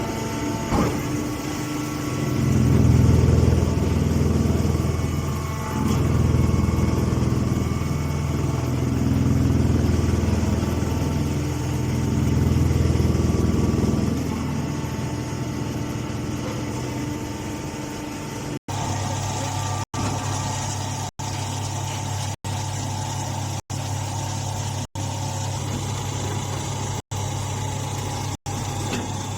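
Engine running a corn straw baler, swelling and easing every few seconds as if taking load. From about two-thirds through it runs steadily, broken by very short gaps about once a second.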